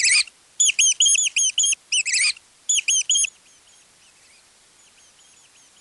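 Mouse squeaking: quick runs of short, high-pitched squeaks, several a second, that stop a little over three seconds in, after which only faint squeaks go on.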